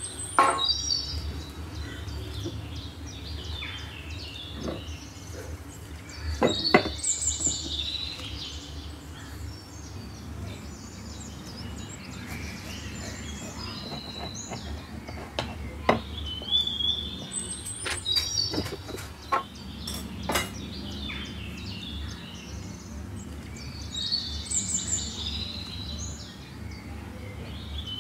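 Birds chirping and twittering in short high bursts every few seconds over a steady low hum, with a few sharp clicks.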